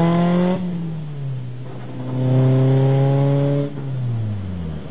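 Acura Integra's swapped-in Honda B20 inline four-cylinder engine under throttle, its pitch climbing, then the revs falling away about half a second in. It pulls again about two seconds in and the revs drop once more near the end.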